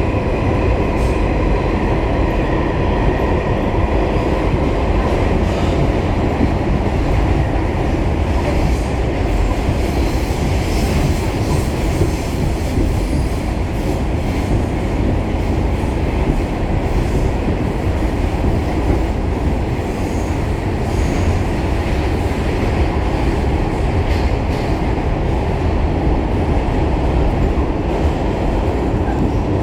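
Pullman Standard R46 subway car running at speed, heard from on board: a loud, steady rumble of wheels on rails, with occasional faint clicks.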